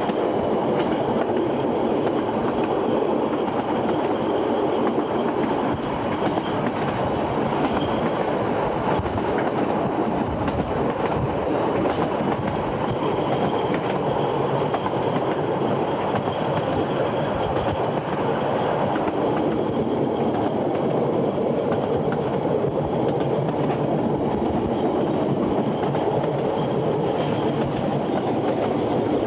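Narrow-gauge railway carriage running along the line, heard from inside the coach: a steady, continuous noise of wheels on the rails.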